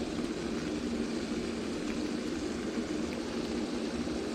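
Steady rushing noise of falling water, with a low hum beneath it and a few faint ticks.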